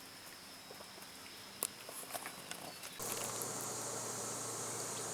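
Faint outdoor background with a few scattered light clicks, then an abrupt step up about three seconds in to a louder, steady hiss.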